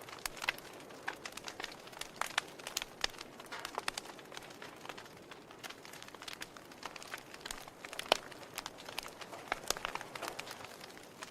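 Wood fire in a fireplace crackling: logs popping and snapping at irregular intervals over a soft hiss, with one sharper pop about eight seconds in.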